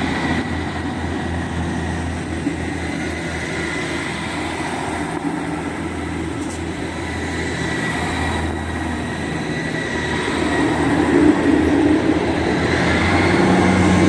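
Three coupled ScotRail Class 158 diesel multiple units pulling out of the station, their underfloor diesel engines running under power with wheel-on-rail noise. The sound gets louder from about ten seconds in.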